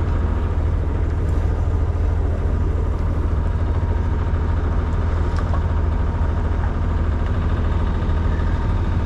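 Sailing yacht's inboard engine running steadily under way, a constant low drone with no change in speed.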